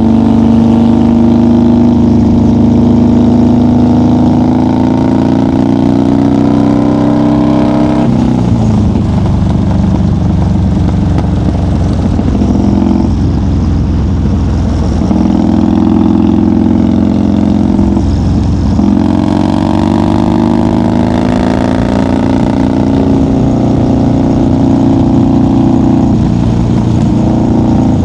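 1990 Harley-Davidson FXR's Evolution V-twin running at highway speed, its pitch climbing steadily under throttle. The note breaks off about eight seconds in and shifts a few more times, at gear changes or throttle changes, then climbs again through the second half.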